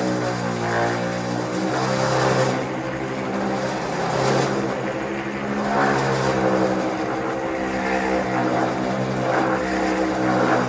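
Handheld power tool motor running steadily, its pitch shifting up and down several times, typical of a sander or grinder working on body filler.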